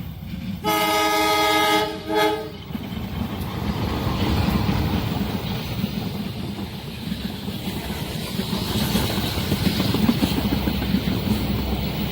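Train horn sounding a blast of about a second, then a short second blast, followed by the steady rumble and clatter of a passing train.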